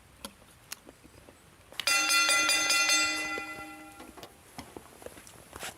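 A bell-like chime starts suddenly about two seconds in, rings steadily for about a second, then fades away; light clicks and taps before and after.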